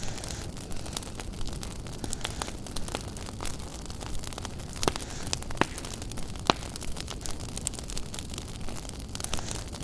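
Wood fire in a fireplace crackling: irregular sharp snaps and pops over a steady low rumble, with one louder pop about six and a half seconds in.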